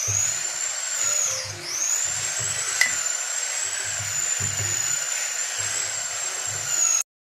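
Small high-speed rotary tool running with a steady high whine. Its pitch dips briefly twice as it bites into the work, and it cuts off abruptly near the end.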